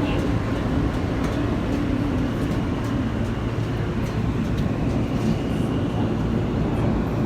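Steady rumble and hum of a New York City subway train, with a faint high whine coming in about five seconds in.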